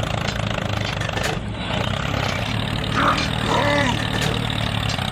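A small engine running steadily. About three seconds in, a short pitched call-like sound rises and falls over it.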